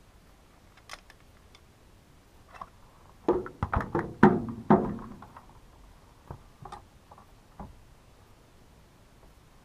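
Hand-handling of a partly dismantled chainsaw's housing and parts: a few light clicks, then a burst of knocks and rattles a few seconds in as pieces are moved and set down, then a few more clicks.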